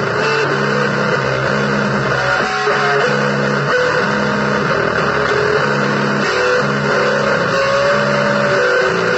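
Blues played on electric guitar: a low chord riff repeating in short, even blocks, with a wandering single-note line above it, all over a dense wash of noise.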